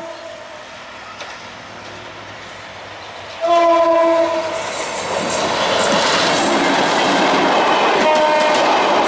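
Diesel-hauled passenger train: the locomotive sounds one short chord blast on its horn about three and a half seconds in. It then passes close by, and the coaches clatter over the rail joints with a loud, steady rumble.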